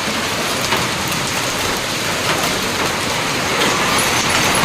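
Heavy rain with hailstones falling and striking surfaces: a loud, steady dense hiss with scattered sharp ticks of hail impacts.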